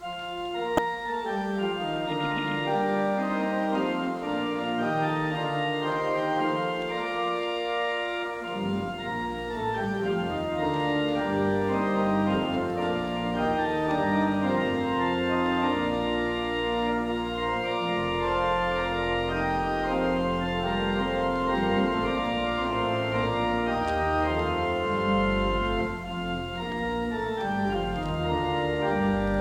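Organ playing a hymn introduction in sustained chords, with deep bass pedal notes coming in about eight seconds in.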